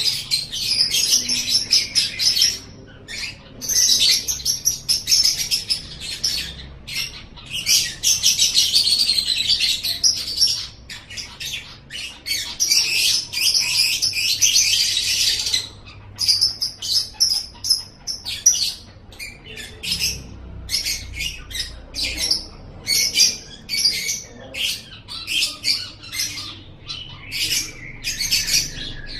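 Lovebird singing a fast, high-pitched chattering song in long bouts of several seconds each, then from about halfway in breaking into short separate chirps.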